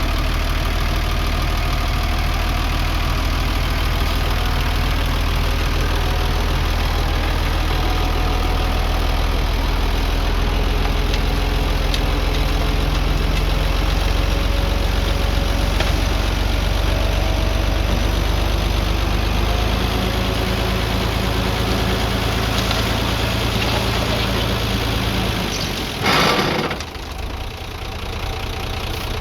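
Diesel engine of heavy earthmoving machinery running steadily, its note changing about two-thirds of the way through. Near the end comes one brief, loud rushing noise, after which the engine sounds quieter.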